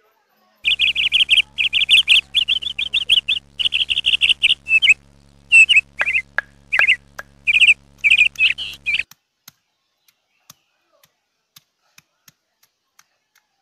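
A bird chirping loudly in rapid, warbling trills over a steady low hum, both cutting off suddenly about nine seconds in. After that only a few faint ticks remain.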